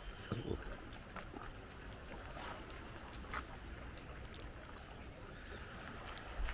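Steady wash of sea water along a beach, with a few light clicks scattered through it and some low rumbling thumps.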